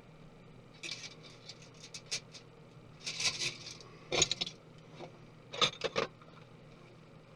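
Small tools and laptop parts being handled during disassembly: four short bursts of light clicks, taps and scrapes, with quiet between them.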